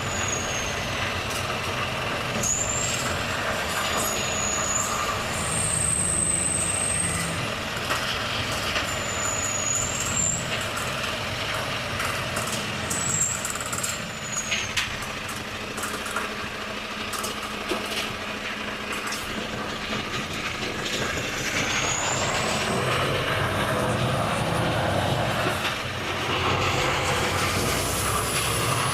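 Volvo FH truck engine running steadily while driving, its pitch shifting with speed. Short high-pitched brake squeals come on and off several times, with a few clicks near the middle.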